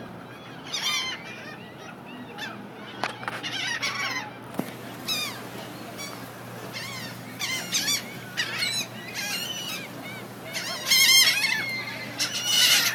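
A flock of gulls calling, many short harsh cries overlapping one after another, loudest a little before the end.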